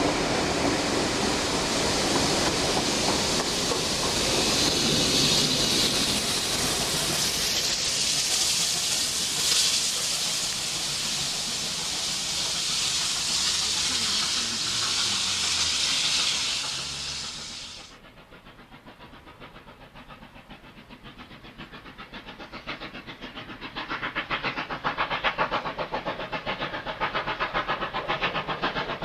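A NSW 38 class steam locomotive blowing off steam in a loud, steady hiss that stops abruptly about eighteen seconds in. After a quieter spell, a fast, even rhythmic beat of the train on the move builds up over the last few seconds.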